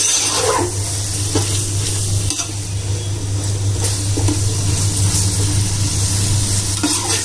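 Chicken pieces sizzling as they fry in oil and spice paste in a metal pot, stirred with a perforated metal ladle that scrapes against the pot now and then. This is the chicken frying to give off its water into the masala. A steady low hum runs underneath.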